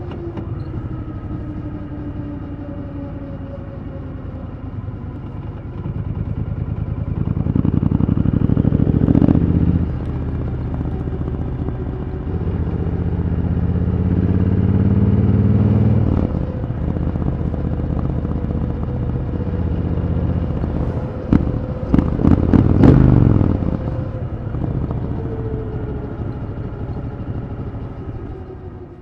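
Triumph Thunderbird Storm's 1,700 cc parallel-twin engine under way at speed: engine pitch falls as it slows, then rises hard twice, each time dropping suddenly at an upshift. A cluster of sharp cracks comes about 22 seconds in, and the pitch then falls as the bike slows, fading at the very end.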